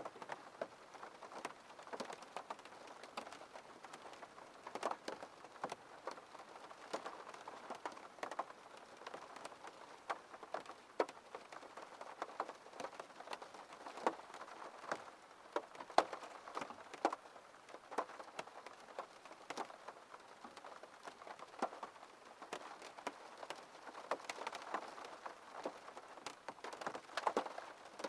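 Rain falling on a window pane: a steady patter, with individual drops ticking sharply and irregularly against the glass.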